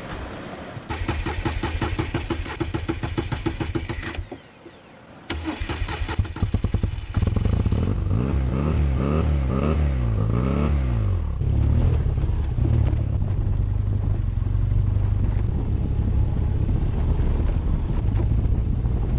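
Motorcycle engine being started: it turns over for about three seconds and stops, starts again about five seconds in and catches, revs up and down a few times, then settles into a steady idle.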